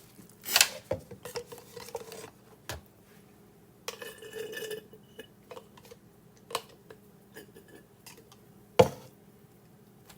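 Scattered clinks and knocks of a meat marinade injector and dishes being handled, with a short rustle in the middle and one loud knock near the end.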